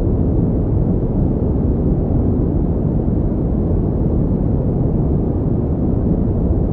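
Steady pink noise: an even, unchanging deep hiss with most of its weight in the low end and little top.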